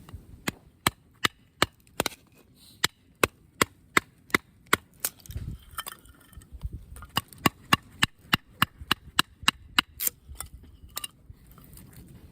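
A rapid, even series of sharp knocks, about three a second, in two runs with a short pause between them, like repeated striking at a campsite.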